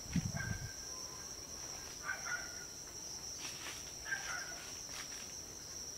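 Steady, high chorus of crickets. Over it come faint, short bell-like tinkles, about two seconds in and again about four seconds in, and there is a brief low thump right at the start.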